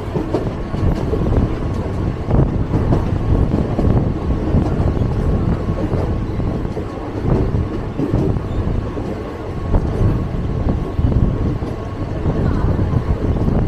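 A moving train heard from on board: a steady low rumble of wheels running on the rails, with occasional faint knocks and a faint steady whine.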